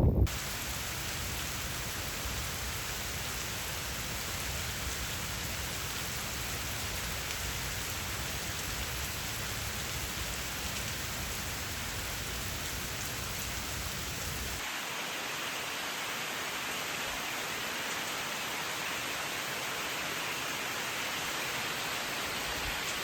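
Steady monsoon rain falling, an even hiss of many drops. About two-thirds of the way through it cuts to a second rain recording with less low rumble.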